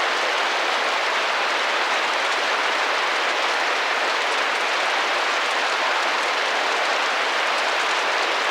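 Rain drumming gently against a window pane: a steady, even hiss of many drops on the glass.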